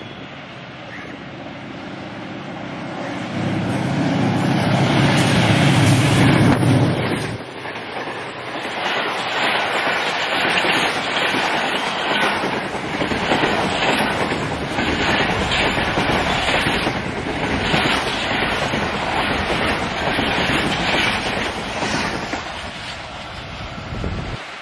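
Passenger train running past at speed. The diesel locomotive's engine rumble builds and is loudest about four to seven seconds in. Then the coaches roll by with a steady, rhythmic clickety-clack of wheels over the rail joints.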